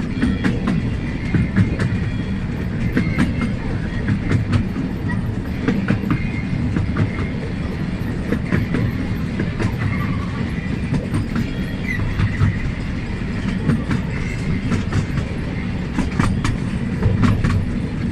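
Small amusement-park train running along its track, heard from on board: a steady low rumble with frequent clicks and clacks from the wheels on the rails.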